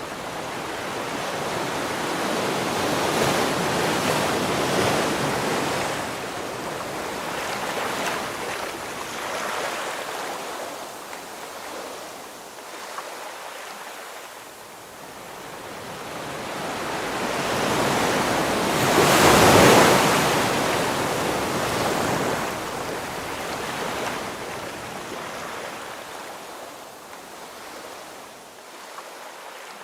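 Ocean waves breaking on the shore: a steady surf wash that swells and ebbs, with one bigger wave crashing about two-thirds of the way through.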